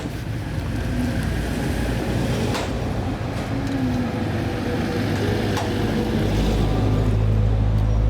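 Motor vehicle engine noise with a steady low hum, growing louder about six seconds in.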